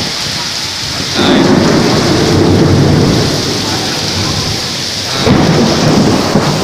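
Heavy tropical rain pouring steadily during a thunderstorm, with two long, loud rolls of thunder, the first starting about a second in and the second just after the first fades.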